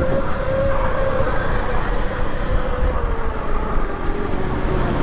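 Electric trail bike's motor whining steadily while riding, over heavy wind rush on the microphone; the whine drops a little in pitch about three seconds in.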